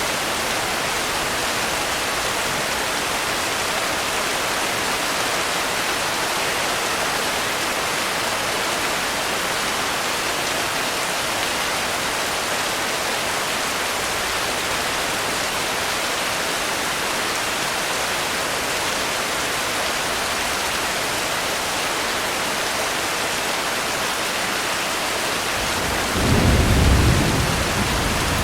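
Steady heavy rain hissing evenly. About 26 seconds in, a low rumble of thunder rolls in for a couple of seconds.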